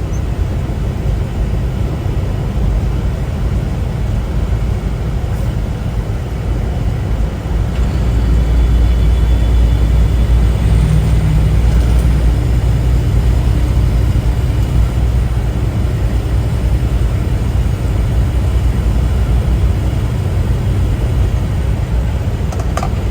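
Steady low drone of a semi-truck's engine and road noise heard from inside the cab, growing louder about eight seconds in.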